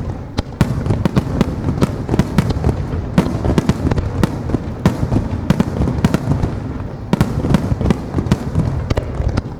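Starmine fireworks barrage: many shells bursting in rapid succession, a dense run of sharp bangs over a continuous low rumble, thinning out near the end.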